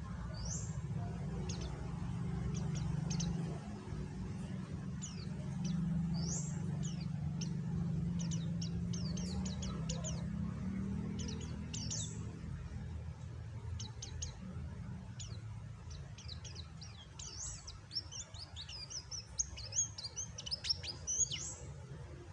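A white-eye (pleci) chirping: many short, high, quick notes scattered throughout, turning into a busier twitter in the last few seconds. A steady low rumble runs underneath.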